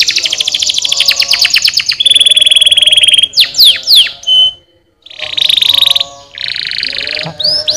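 Domestic canary singing: fast rolling trills of rapidly repeated notes, a few quick falling whistles about three and a half seconds in, a brief pause near the middle, then more rolling trills.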